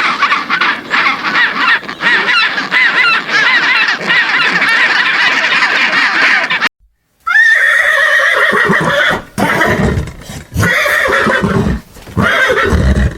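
Animal calls in two back-to-back clips, cut apart by a half-second of silence about halfway through. The first clip is a dense run of quavering calls. The second opens with a held call, followed by low, pulsing sounds.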